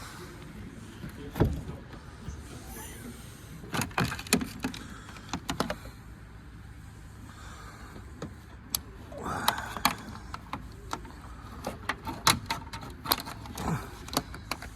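Scattered clicks, knocks and rattles of things being handled inside a car, irregular and sharp, with a brief scraping sound about nine seconds in.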